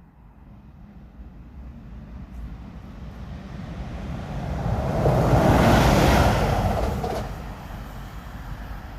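Train passing by on the track, its rumble building to a peak about six seconds in and then fading.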